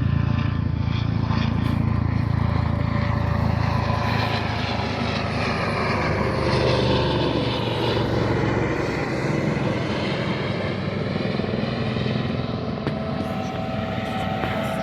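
Large aircraft flying past with its engines running loudly. The engine tone slides down in pitch around the middle as the aircraft passes.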